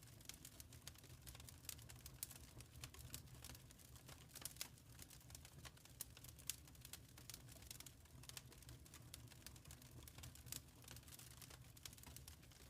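Wood fire crackling faintly: irregular quick snaps and pops, some louder than others, over a soft low rumble.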